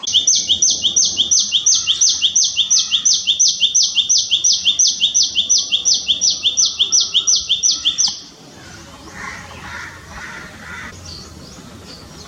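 Common tailorbird calling: a loud, fast run of sharp, high repeated notes, about four a second, that stops abruptly about eight seconds in.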